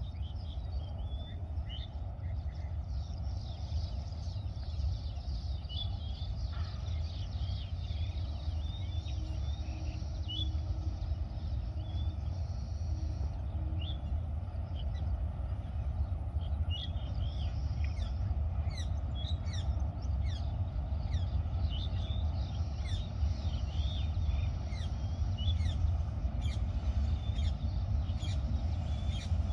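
Small birds chirping and calling repeatedly over a steady low rumble, which grows slightly louder toward the end.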